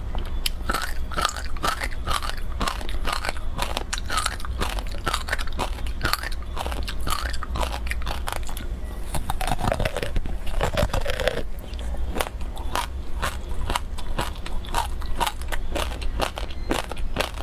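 Close-up crunching and chewing of frozen passion fruit ice: a dense run of sharp, irregular cracks and crackles as the ice is bitten and broken between the teeth.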